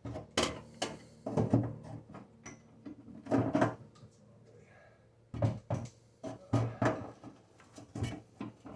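Irregular knocks, clunks and rattles of hands handling faucet parts and tools at a kitchen sink and its cabinet, in short clusters every second or so.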